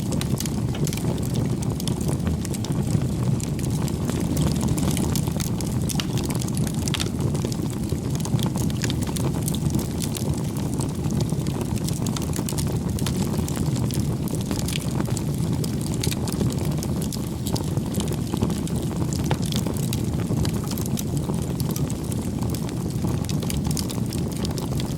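Wood campfire burning: a steady low rush of flames with frequent sharp crackles and pops from the burning wood.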